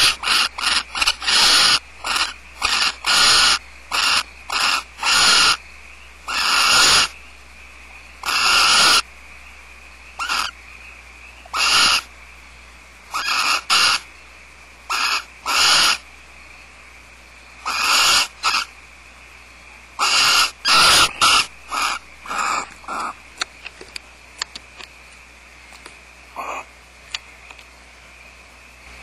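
Barn owls in the nest box giving harsh, hissing screeches in a long run of repeated bursts, each under a second. The bursts come thick and irregular, then thin out to a few faint clicks near the end.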